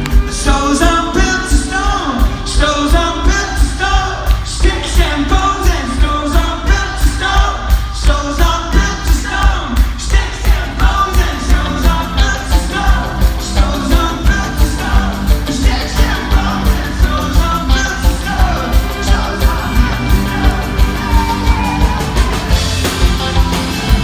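Live rock band playing loudly with a steady, driving kick-drum beat, while the singer and audience sing the part together.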